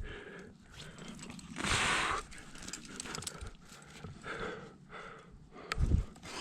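A climber breathing hard in soft, regular puffs about once a second, with one louder rushing breath about two seconds in. A dull low bump comes near the end.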